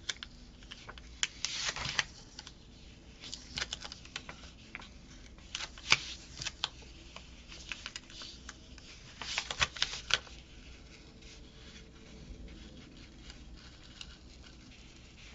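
A paper sticker being peeled slowly off a planner page, with scattered soft crackles and paper rustles; the sticker is tearing as it comes up. The handling sounds thin out in the last few seconds.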